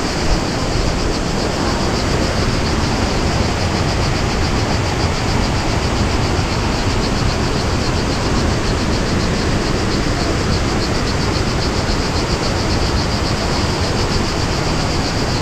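Steady roar of rushing waterfall water, with a high, fast-pulsing buzz held on top of it.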